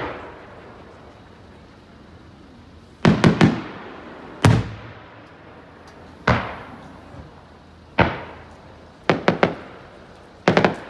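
Aerial firework shells bursting overhead: a string of sharp bangs every one to two seconds, some single and some in quick runs of two or three, each trailing off in a fading echo.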